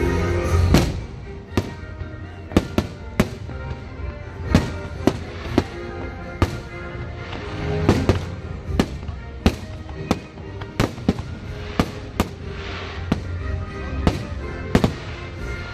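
Aerial fireworks bursting in a rapid, irregular series of sharp bangs, one or two a second, over music playing throughout.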